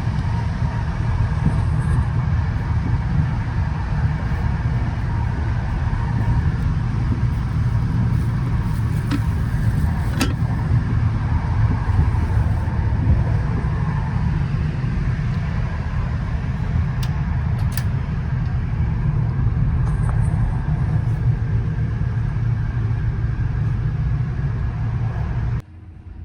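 Passenger train in motion: a steady low rumble with a few sharp clicks, dropping away abruptly near the end.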